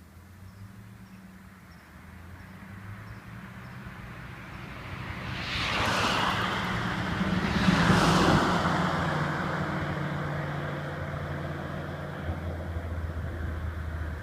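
Audi TT 225 with a 3-inch turbo-back exhaust and no catalytic converter driving by: it approaches, passes close about six to eight seconds in, and fades away.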